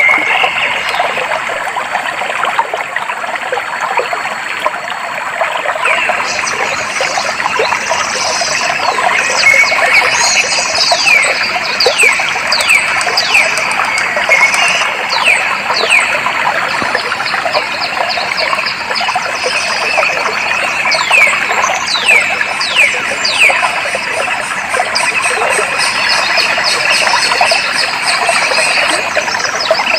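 Clear water flowing steadily, with birds giving many quick, high, downward-sliding calls over it from about six seconds in until a little past the middle.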